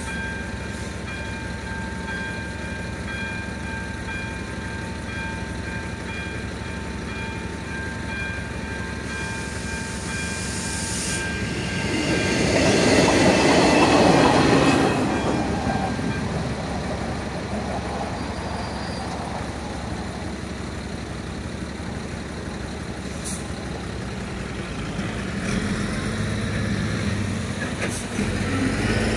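Level-crossing electric bell ringing steadily while a two-car České dráhy railcar runs through the crossing, loudest a little under halfway in. The bell stops soon after the train has passed, and cars start driving over the crossing near the end.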